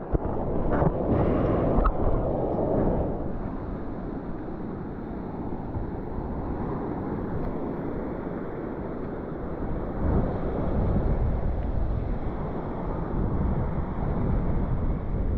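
Wind buffeting the microphone over the rush of heavy, typhoon-driven surf, with louder gusts in the first few seconds and again later on.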